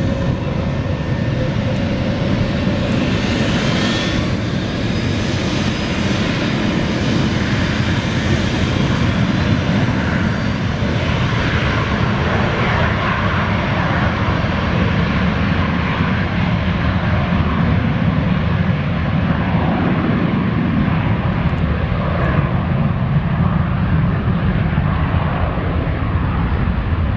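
McDonnell Douglas MD-83 jet airliner's two rear-mounted Pratt & Whitney JT8D-219 turbofan engines at takeoff thrust: a loud, steady jet noise with a faint whine in the first few seconds.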